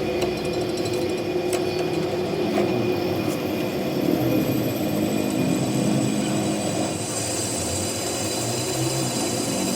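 A machine running steadily with a continuous mechanical hum and whir, with a few light clicks in the first half.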